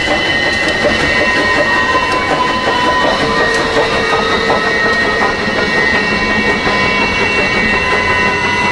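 Passenger train cars rolling past at low speed, with a steady rumble of wheels on the rails, some clickety-clack, and steady high-pitched tones over it.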